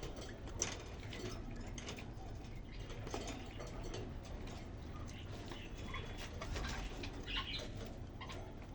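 Caged birds chirping in short, scattered calls over scratchy rustling and clicks, with a sharp click about half a second in.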